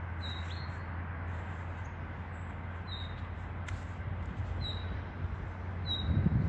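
A songbird repeating a short, high call note, four times, spaced one to two seconds apart. Beneath it is a steady low rumble that grows louder near the end, and there is a single sharp click in the middle.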